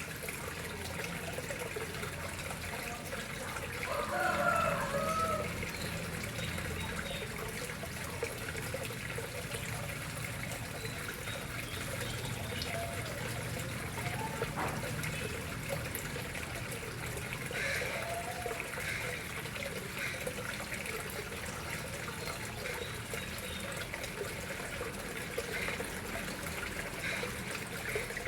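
Water trickling and splashing steadily into a koi pond. A few short sliding tones stand out about four seconds in, with fainter ones later.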